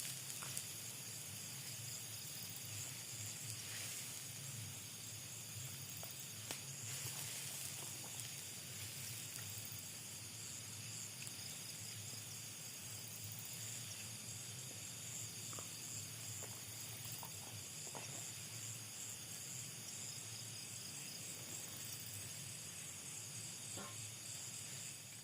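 Faint, steady chorus of night insects, crickets or similar, pulsing evenly at a high pitch over a low steady hum, with a few faint clicks.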